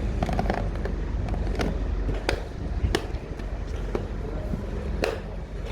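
Freight wagons rolling past: a steady low rumble with several sharp, irregular clanks as the wheels pass over rail joints.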